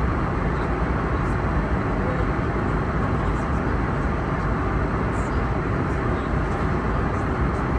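Steady cabin noise inside an Airbus A321neo airliner: a low, even roar with no changes.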